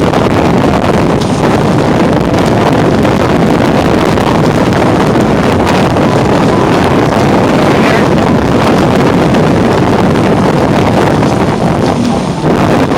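Loud, steady wind noise buffeting the microphone, with rushing water, aboard a Hobie 16 catamaran sailing fast.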